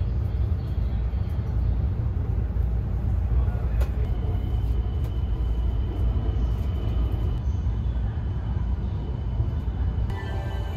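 Cabin noise of a moving limited-express train: a steady low rumble from the running gear, with a faint high whine joining about four seconds in.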